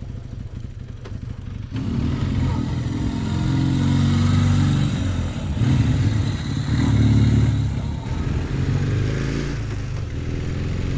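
1984 Kawasaki Z440 LTD's twin-cylinder engine running on the move: fainter at first, then louder from about two seconds in, the revs rising and falling as it pulls. The rider says it is missing a little on this ride, which he puts down to a fouled plug or dirt in the carbs.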